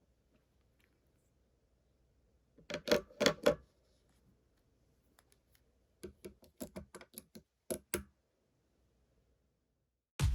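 Sharp clicks and taps of small hard objects: a quick cluster of about five about a third of the way in, then a looser run of about a dozen more a few seconds later.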